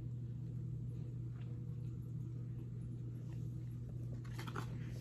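A person chewing a mouthful of Big Mac burger, with faint wet mouth clicks and a few sharper ones a little after four seconds in, over a steady low hum.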